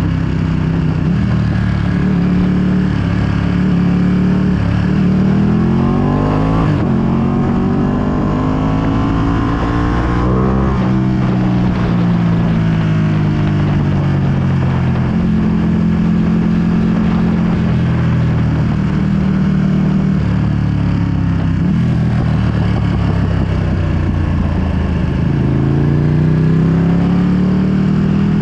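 2020 Ducati Panigale V2's 955 cc L-twin engine running through a full Akrapovic exhaust while riding, with wind noise on the microphone. The revs climb and drop sharply at a gear change twice in the first half, hold steady through the middle, then climb again near the end.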